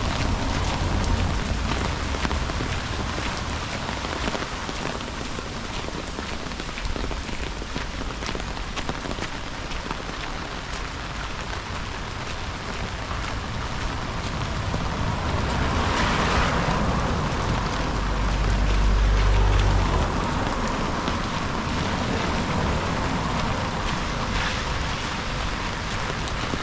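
Steady rain falling and pattering on surfaces, recorded through a GoPro microphone. Past the middle a hissing swell rises briefly, followed by a loud low rumble for about two seconds.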